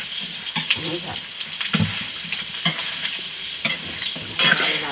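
Food frying and sizzling in a pan while being stirred, with a spoon knocking against the pan about once a second.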